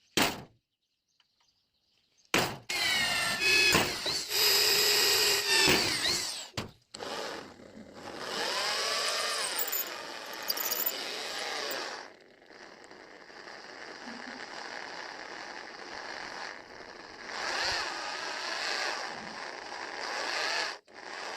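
Handheld electric power tool working metal, its motor whine rising and falling under load. It comes in several runs with short breaks between them.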